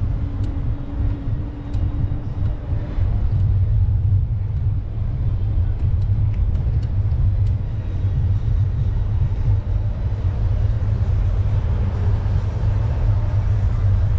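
Steady low rumble throughout, with a faint hum in the first few seconds and a few faint clicks.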